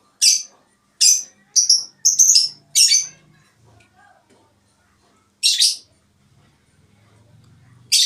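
A small bird chirping: short, high, sharp chirps in quick succession over the first three seconds, a pause, then another chirp about five and a half seconds in.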